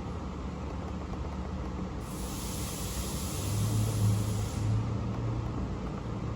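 2009 Honda Accord's 2.4-litre four-cylinder engine running steadily at idle, swelling briefly past the middle. A hiss comes in about two seconds in and stops about three seconds later.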